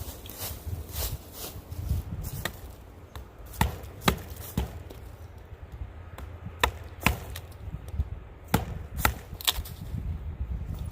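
A wooden baton striking the spine of a pocket knife, driving the blade into the trunk of a dead standing tree. It makes about a dozen sharp knocks in irregular groups of two or three.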